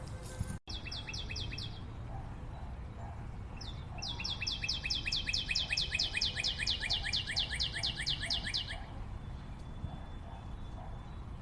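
A forest bird calling in rapid runs of the same high note repeated about five times a second: a short run near the start and a long run of some five seconds in the middle, over a steady low background noise.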